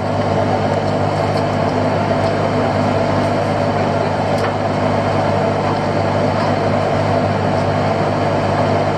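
Fishing boat's engine running steadily with an even low drone.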